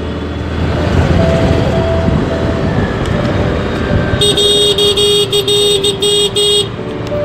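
Busy street traffic with engines running. A vehicle horn gives three short toots a second or so in, and about halfway through another horn honks in a quick string of short beeps for about two and a half seconds.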